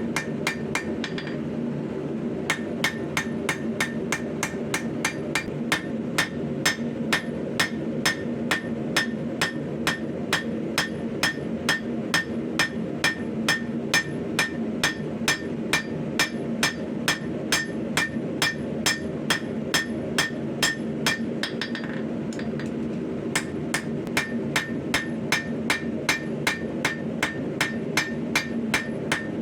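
Hammer blows on hot 5160 spring steel at the anvil, about three strikes a second, each with a short metallic ring, over a steady low rumble. The hammering pauses briefly about a second in and again about two-thirds of the way through.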